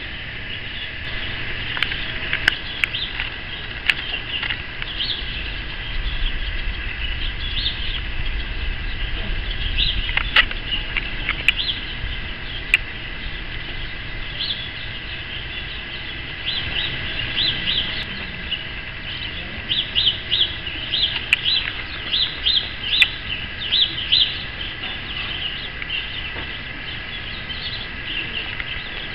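Small birds chirping in quick, high calls, thickest about two-thirds of the way through, over a steady high-pitched hum.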